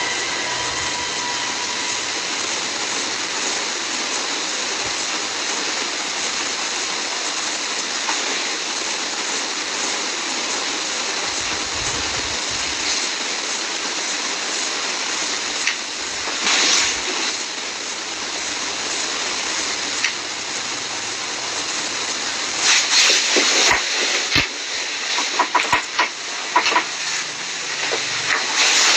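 Steady hissing noise, with louder bursts of crackling and knocking about two-thirds of the way in and again through the last several seconds.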